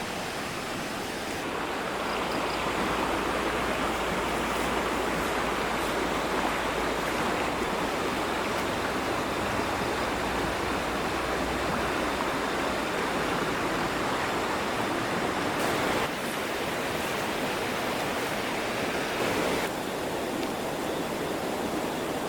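Water rushing steadily, an even noise without distinct splashes, growing a little louder about two seconds in.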